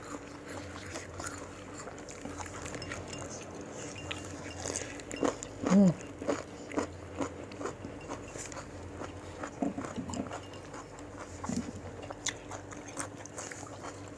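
Crisp raw fruit and cucumber slices, dipped in rujak sauce, being bitten and chewed, with many short wet crunches. About six seconds in, a short hummed "mm" from the eater is the loudest sound.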